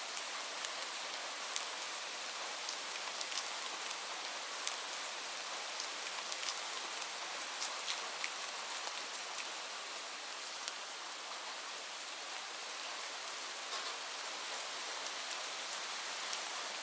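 Steady rain falling on leaves: an even hiss with many separate sharp drop ticks scattered throughout.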